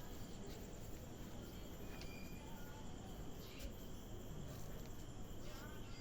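Crickets trilling steadily over a low background rumble, with a few faint short chirps.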